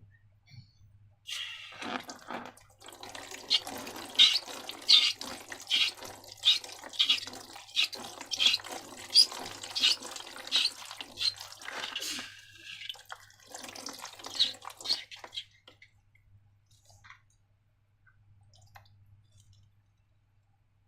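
Wet, sticky slime squelching and dripping in a quick run of short squishes, roughly two strong ones a second, stopping about fifteen seconds in.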